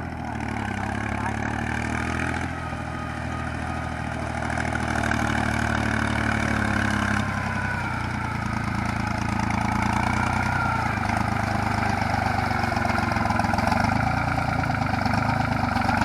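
Yanmar YM3000 tractor's diesel engine running steadily, its pitch and loudness rising and falling a little as it works the soil.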